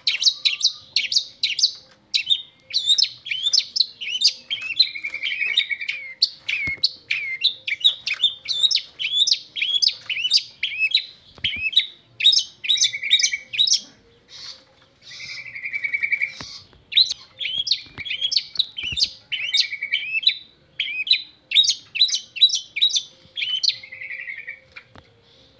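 Long-tailed shrike (cendet) singing a fast, continuous run of chattering and chirping phrases with brief gaps between bursts. The song stops near the end.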